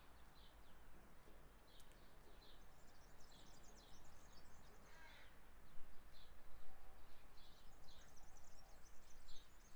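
A small bird chirping over and over, short high chirps about twice a second, over faint outdoor background noise.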